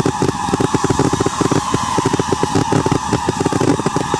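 Fireworks going off in a dense, continuous barrage: many sharp bangs a second running together, with no let-up.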